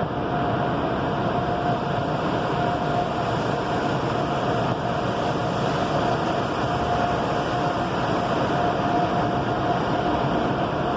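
Car wash machinery running: a steady rushing noise with a constant whine through it.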